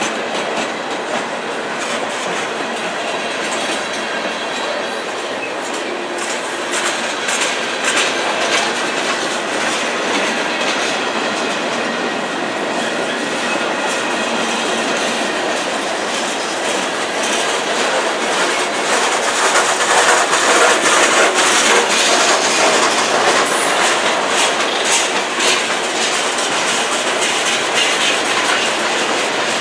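Freight train cars rolling past, with a steady clatter and a rapid clickety-clack of wheels over the rail joints. Short high-pitched wheel squeals come now and then.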